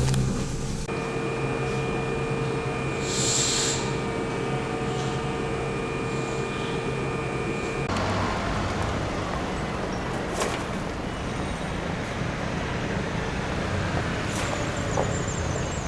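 Steady hum and hiss of a Keihan 8000 series electric train standing at its terminal platform with the doors open, with a brief hiss of air about three seconds in; a steady tone in the hum stops about eight seconds in.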